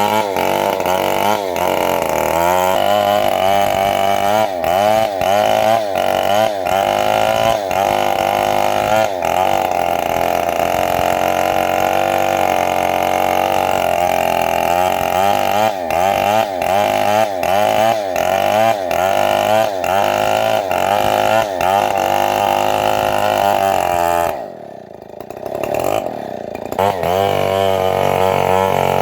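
Engine of a homemade bandsaw sawmill running under load as the blade cuts a trembesi log, its pitch wavering up and down. Near the end the sound drops away for about two seconds, then comes back.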